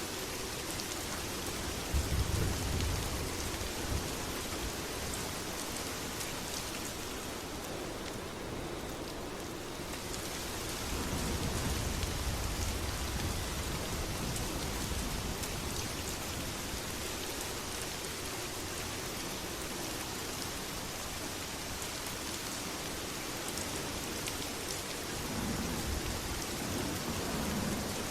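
Steady heavy rain, with low rumbles of thunder about two seconds in, again around eleven seconds in, and near the end.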